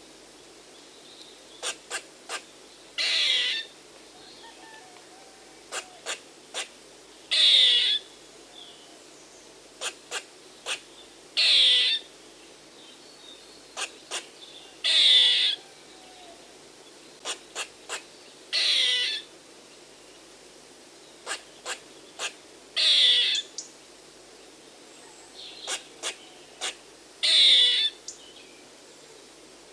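Squirrel alarm calling: runs of two to four short sharp chucks, each followed by a longer call that falls in pitch. The pattern repeats about every four seconds.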